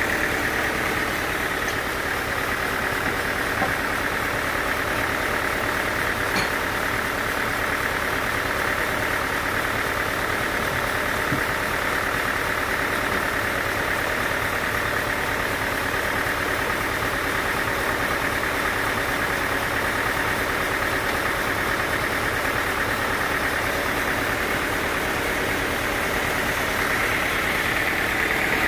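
Sawmill machinery running steadily: an even motor drone, with a brighter whine that swells near the start and again near the end.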